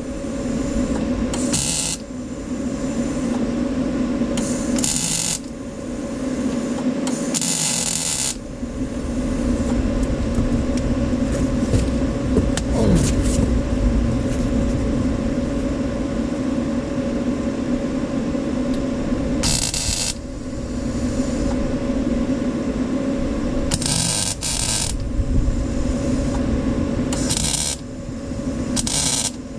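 Bodywork power tools on sheet steel: a steady motor hum with about eight short bursts of harsh, crackling hiss, each under a second to about a second long, spread unevenly through the stretch.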